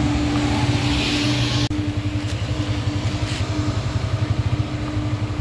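Truck engine running with a steady low, even pulsing, cut by a brief break about a second and a half in.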